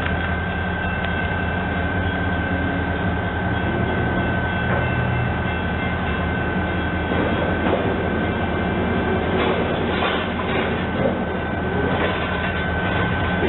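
Train running on the rails: a steady low engine drone under a constant high whine, with clusters of wheel clicks over rail joints in the second half.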